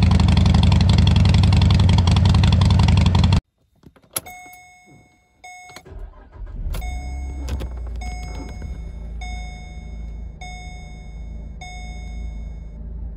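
A loud, noisy sound fills the first three seconds. Then, about six seconds in, a 2010 Holden VE Commodore's 3.0-litre SIDI V6 starts and settles into a steady idle, while a two-note dashboard warning chime repeats about once a second. The engine idles normally with a timing-chain fault code stored and the check-engine light lit.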